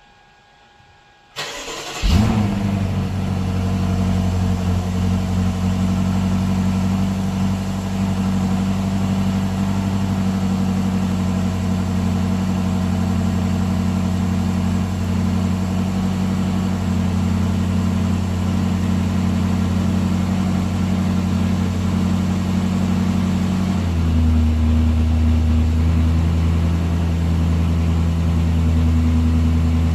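BMW X7's V8 starting from cold: a brief crank about a second and a half in, catching with a sharp flare about two seconds in, then running at a steady fast cold idle. About three quarters of the way through the idle note drops and deepens as the engine settles.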